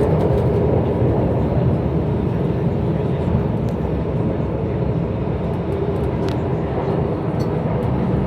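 Downtown Line C951A metro train running at speed, heard from inside the carriage: a steady rumble of wheels on rail with an even hum underneath.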